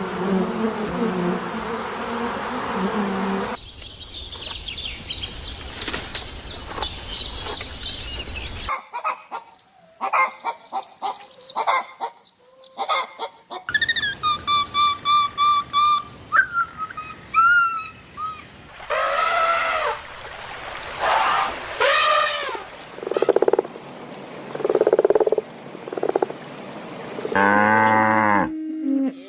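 A string of different animal calls, each lasting a few seconds before the next begins: low pulsing calls, then rapid high chirps, clicking croaks, whistled notes and falling cries, with frog croaking among them. Near the end a cow starts to moo.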